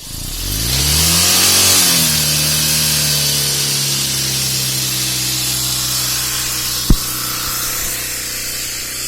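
Vehicle engine revved up over about two seconds and held at a steady raised speed, with a steady hiss over it, its exhaust pushed through a hose to inflate a tubeless tyre. One sharp knock about seven seconds in.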